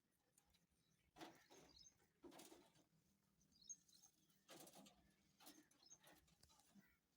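Faint sounds of an Indian ringneck parrot eating soft feed: a few short smacking, scraping bursts from its beak, with faint high chirps in between.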